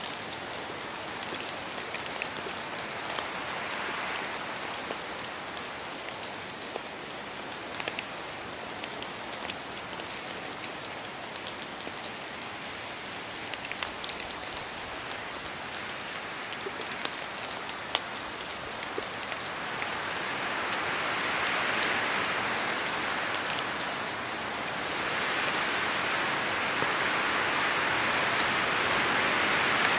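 Steady rain falling in a forest, with the ticks of individual drops over an even hiss. The rain and wind swell louder about two-thirds of the way through and stay louder to the end.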